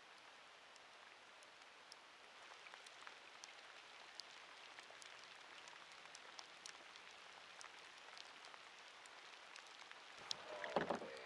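Light rain falling steadily: a soft, even hiss scattered with many small drop ticks. A louder, brief sound comes about ten seconds in.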